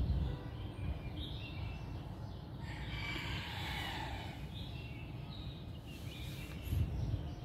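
Birds chirping now and then, in short high calls, over a steady low rumble of outdoor background noise.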